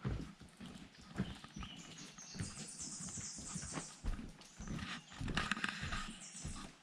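A hiker's footsteps walking along a trail: an uneven run of steps with rustling between them.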